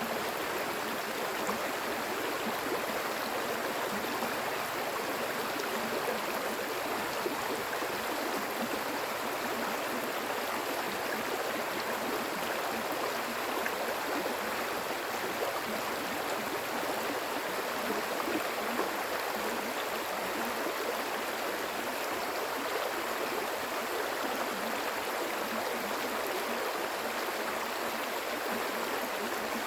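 Water flowing in a stream, a steady, unbroken rush.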